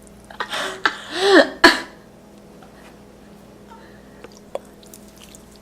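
A person's short wordless vocal sounds, like a throat-clearing or a groan, with a sharp click, lasting about two seconds; then quiet room tone with one faint click.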